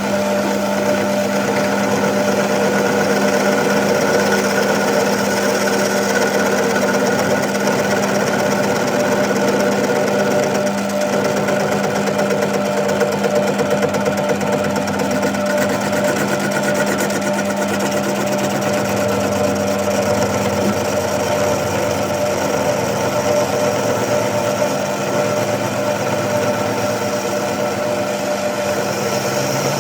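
Heavy machinery running steadily, with a constant low hum that cuts off about two-thirds of the way through while the rest keeps running.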